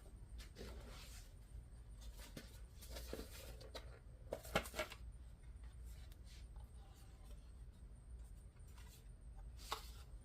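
Faint room tone with a few light clicks and scrapes of objects being handled, the sharpest a quick cluster about four and a half seconds in and another near the end.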